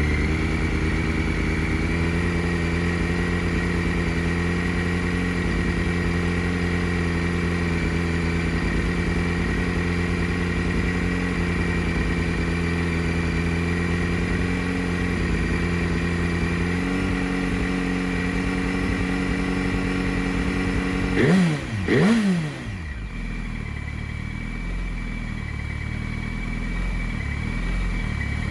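Yamaha R1's inline-four engine running steadily through an aftermarket Akrapovič Y-pipe and Scorpion can. About 21 seconds in come two quick throttle blips, each rising sharply and falling straight back, and then the engine settles to a lower, quieter idle.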